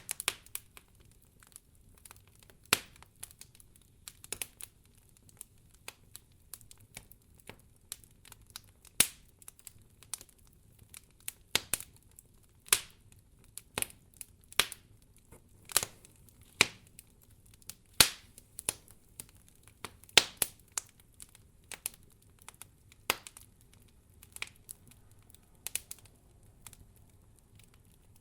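Wood fire crackling: sharp, irregular pops and snaps, several a second at times, over a faint low hiss of burning.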